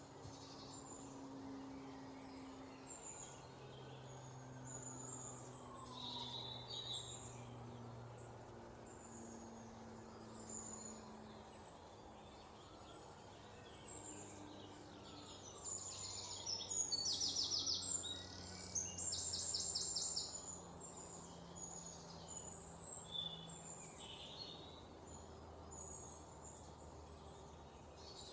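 Several wild birds chirping and singing in short calls, with two louder, rapid trills of quickly repeated notes a little past halfway. A faint steady low hum runs underneath.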